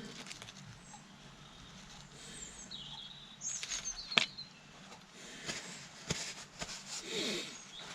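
Faint clicks and handling noises of small parts being worked on a bench, with a few short high chirps about three seconds in and one sharp click just after four seconds.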